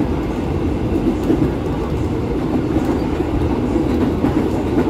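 Inside a KRL Commuterline electric commuter train running at speed: a steady rumble of the wheels on the rails and the car's running noise, with no clear rise or fall.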